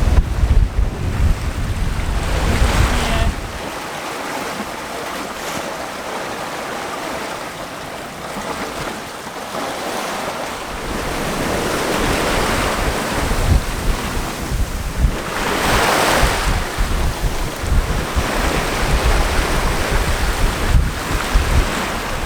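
Sea water rushing and splashing along a sailing yacht's hull as it moves under sail through moderate waves, swelling in several surges. Wind buffets the microphone with a low rumble that drops away for several seconds, from about four to ten seconds in, then returns.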